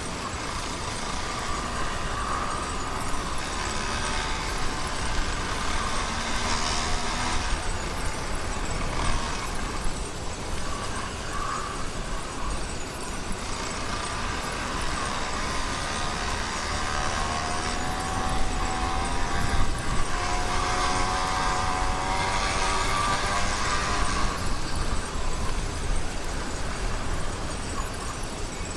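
YD100 two-stroke bicycle engine running on a motorized bicycle under way, its pitch rising and falling with the throttle.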